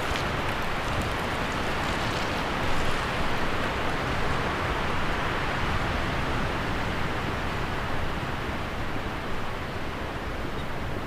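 Wind blowing through tree leaves: a steady, even rush.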